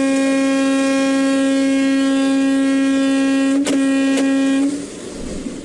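A truck's horn held in one long steady blast, broken for an instant a little over three and a half seconds in, with a couple of sharp clicks, and stopping shortly before the end.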